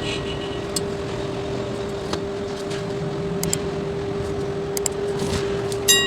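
Steady hum at one pitch, with scattered small clicks of tools and parts being handled and a sharp ringing metallic clink near the end.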